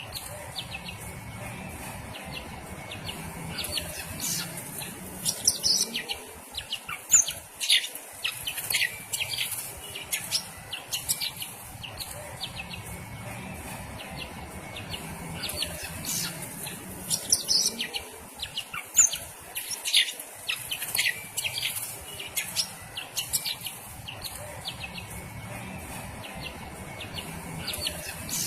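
Green leafbird (cucak ijo) singing in bursts of rapid, sharp chirps and whistled notes, a flurry every several seconds.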